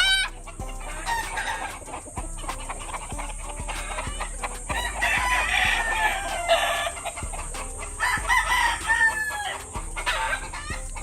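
A large flock of chickens clucking, with roosters crowing over it, the calls overlapping.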